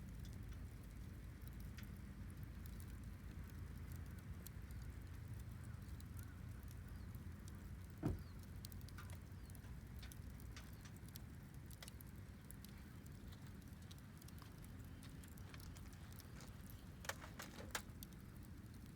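Wood fire crackling faintly with scattered small pops over a low steady rumble. There is one louder knock about eight seconds in and a few sharp snaps near the end.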